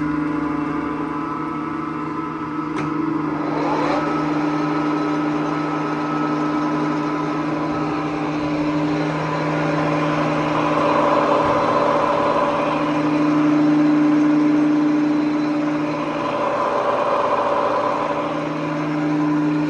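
Clausing Colchester 17-inch geared-head engine lathe running under power, a steady machine hum and whine with several held tones. About three seconds in the pitch glides upward, and the noise swells a couple of times later on.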